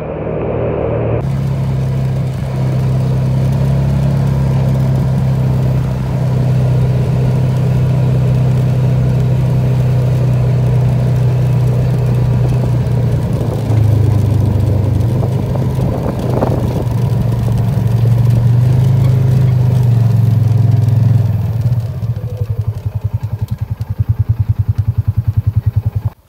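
Engine of a small vehicle running steadily under way. Its pitch drops in the middle and rises again. Near the end it slows to an idle with an even pulsing beat.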